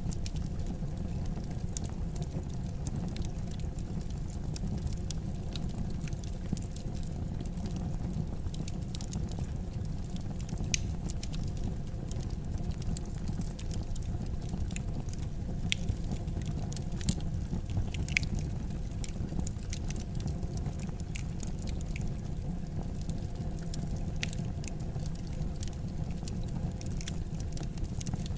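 Wood fire burning in a fireplace: a steady low rush from the flames, with scattered sharp crackles and pops and a few louder snaps now and then.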